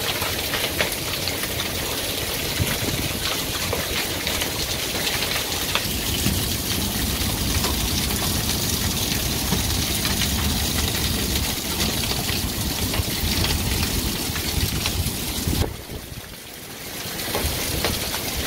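Steady heavy rain from a hailstorm pattering on the deck and surroundings, with wind rumbling on the microphone. The sound drops off briefly about 16 seconds in, then returns.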